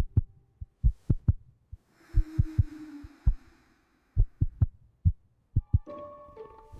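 A run of short, soft, low thumps and knocks at uneven spacing, about a dozen of them, with a brief hiss and low hum in the middle. Music comes back in near the end.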